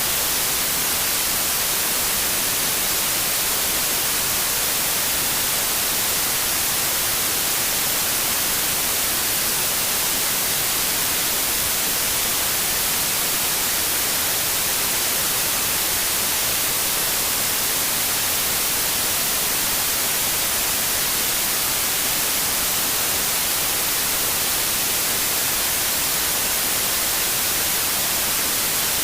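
Steady, unchanging white noise: an even hiss, brightest in the highest frequencies.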